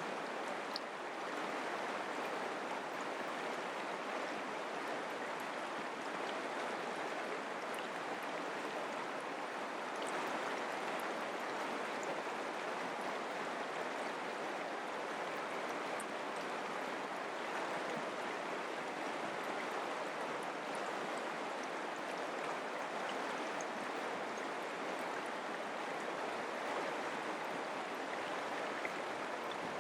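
Mountain creek flowing over rocks: a steady, even rush of running water.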